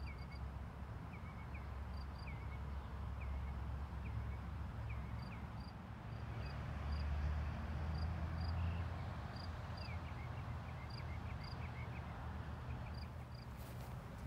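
Small birds chirping, short hooked chirps and quick high pips about once or twice a second, over a steady low rumble.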